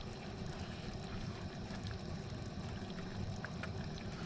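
Gas burner on a low flame, giving a steady low rumble, with a few faint clicks over it.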